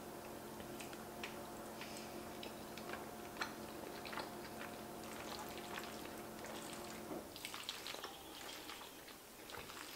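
Close-up eating sounds of a person chewing a mouthful of creamy beef stroganoff with egg noodles, with soft wet clicks and smacks. A steady background hum cuts off about seven seconds in.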